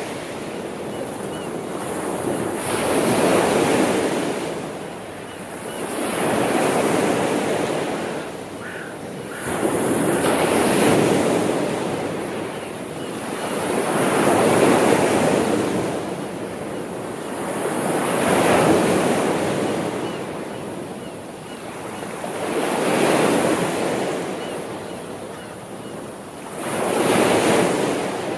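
Sea waves washing onto the shore in a steady rhythm, each swell surging and then receding about every four seconds.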